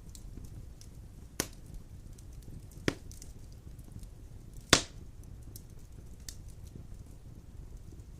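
Large logs burning in a wood fireplace: a low steady rumble of flame with scattered small crackles and three sharp pops, the loudest a little under five seconds in.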